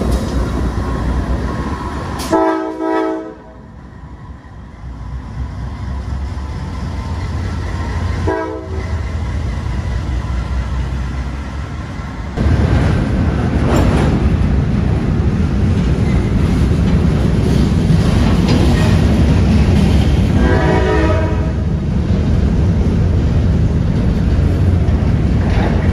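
Freight train passing close by: a diesel locomotive's horn blows for about a second near the start, briefly again a few seconds later, and once more later on, over the steady rumble and clatter of hopper cars rolling past, which gets louder partway through.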